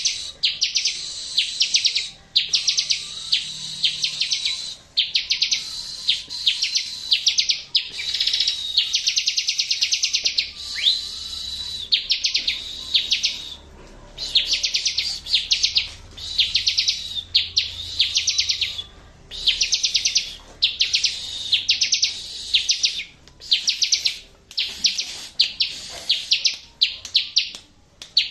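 Bar-winged prinia (ciblek) singing hard: fast trills of rapidly repeated high notes in phrases of about one to two seconds, with short pauses between them. It is played as a masteran, a training song meant to set off a ciblek that has gone quiet.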